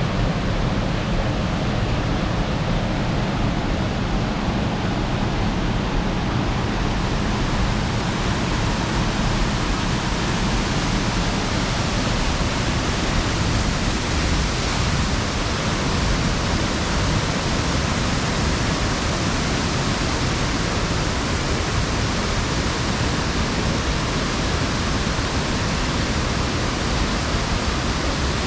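Steady rush of water falling and tumbling over rocks in a mountain gorge, growing a little brighter after about seven seconds.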